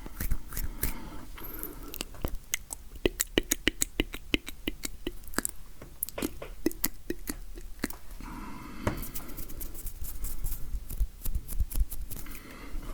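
Close-miked ASMR hand sounds: sharp clicks and taps coming in quick runs, with short pauses between them.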